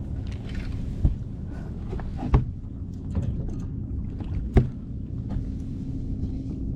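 Fishing boat on the water: a steady low hum with three sharp knocks, about one, two and a half, and four and a half seconds in.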